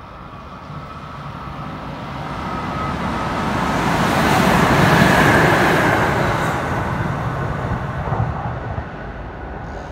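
Kintetsu 2800 series electric train passing through the station at speed without stopping. The rush of wheels on rail builds to its loudest about halfway through, then fades as it draws away.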